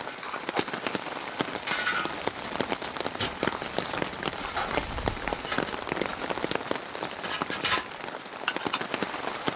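Heavy rain falling, with many separate drops striking close by and a few louder hits among them.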